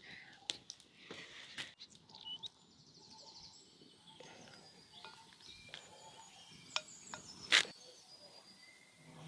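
Quiet rural outdoor ambience with faint scattered chirping and small clicks. One sharp knock comes about seven and a half seconds in.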